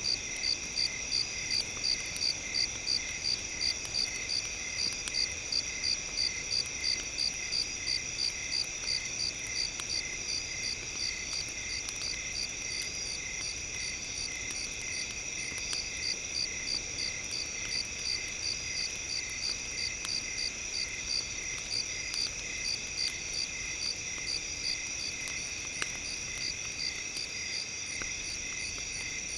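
Crickets chirping in a steady pulsing rhythm, about two to three chirps a second, over a continuous high insect trill. The pulses are strongest in the first third and fade somewhat after.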